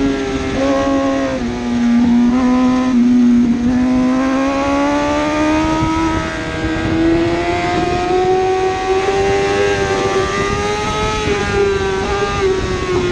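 1000cc superbike engine running hard at race pace. Its pitch changes in short steps over the first few seconds, climbs in one long pull, then drops in quick steps near the end as the bike shifts down.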